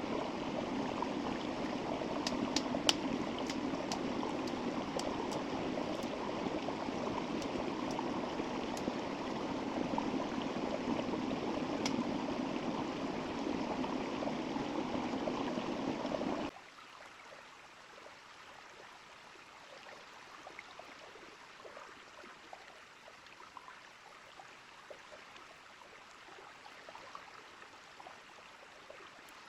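Small river flowing steadily, with a few sharp clicks near the start. A little over halfway through, the sound cuts abruptly to a much fainter, softer flow of water.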